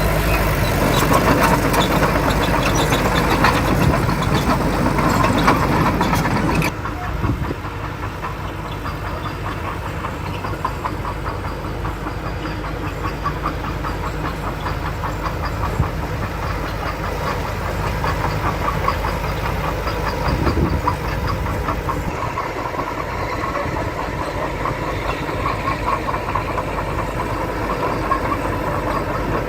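Diesel engine of heavy construction machinery running, with a steady clattering rhythm. The sound changes abruptly about seven seconds in to a quieter, steadier engine.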